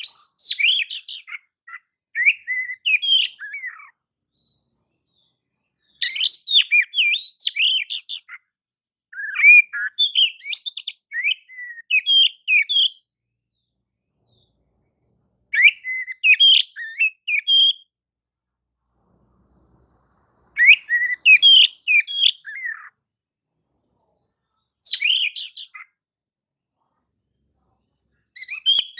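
Oriental magpie-robin singing: about eight short phrases of rapid, varied whistles and chattering notes, each a second or two long, separated by silent pauses of a few seconds.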